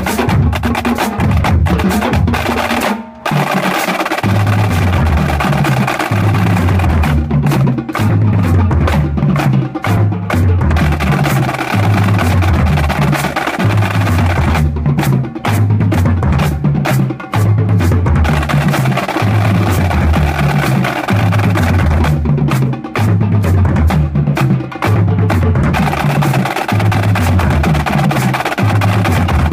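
High school drumline playing a steady cadence: snare drums rolling and striking over drums that repeat a low stepping figure.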